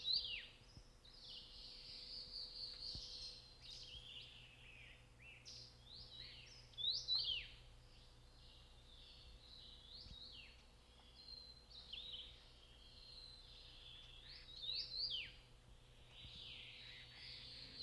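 Several small songbirds calling together: a busy chatter of many short, overlapping chirps that slide up and down in pitch, with no break.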